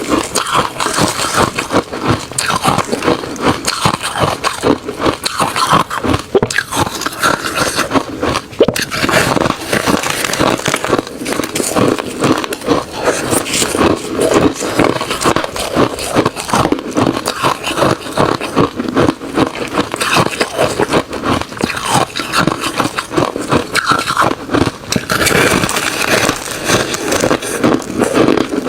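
Refrozen crushed ice and shaved ice being chewed close to the microphone: a dense, unbroken run of crunches and crackles.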